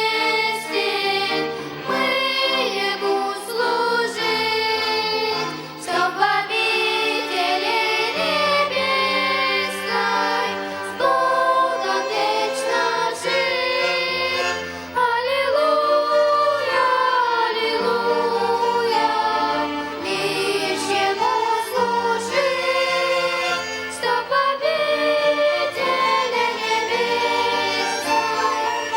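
Church choir singing an Easter hymn with a violin ensemble accompanying.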